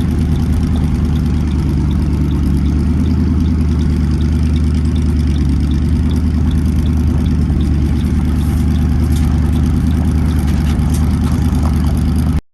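Twin-turbocharged Ford three-valve (3V) V8 idling steadily, with a faint light ticking repeating about three times a second.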